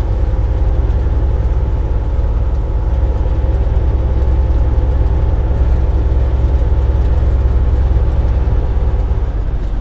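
Semi truck heard from inside the cab while driving on the highway loaded: a steady low engine and road drone with a faint hum of tones above it.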